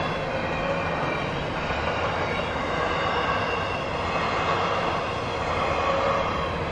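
CSX freight train rolling past, the cars rumbling steadily on the rails, with faint squealing wheel tones that come and go.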